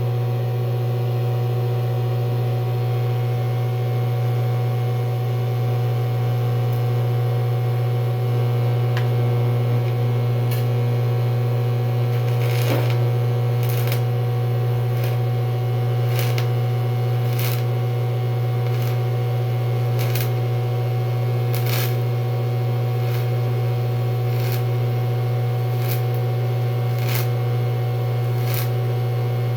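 DC electrode-positive lift-start TIG arc welding aluminum under argon: a steady low hum from the arc, with scattered crackles and pops that grow more frequent in the second half.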